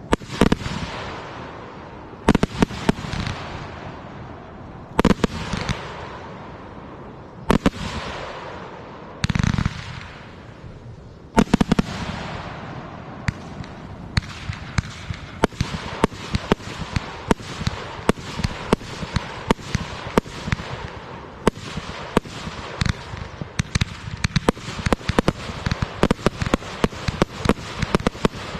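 Fireworks going off: a series of loud aerial shell bursts about every two to three seconds, each followed by a trailing crackle, then about halfway through a dense, rapid crackling of many small pops that keeps on without a break.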